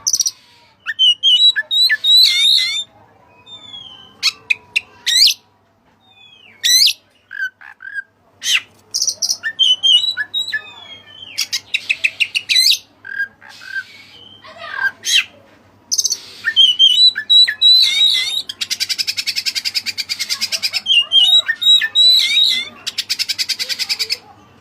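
Oriental magpie-robin (kacer) singing a loud, varied song of sharp whistles, chirps and gliding notes. In the second half it gives two long, rapid, harsh rattling trills. This is the challenging song used to lure rival males.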